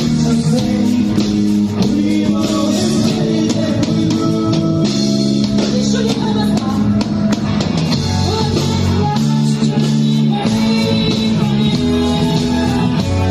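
Rock band music with guitar and drums, playing steadily throughout.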